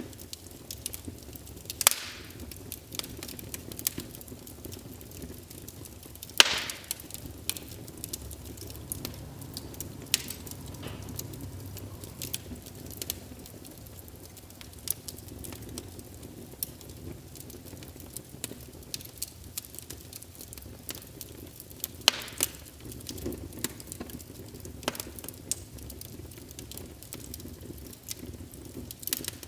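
Wood fire crackling, played back by a fireplace sound emulator: irregular sharp pops and snaps over a low steady rumble, with a few louder pops, the loudest about two and six seconds in.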